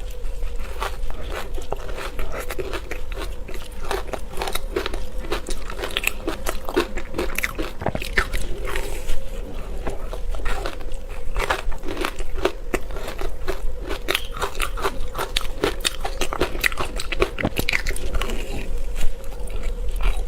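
A person biting and chewing ice, with dense, irregular crunching and cracking close to the microphone.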